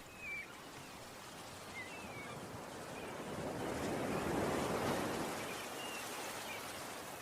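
Ocean surf: a wave washing in, swelling to a peak about midway and then ebbing away.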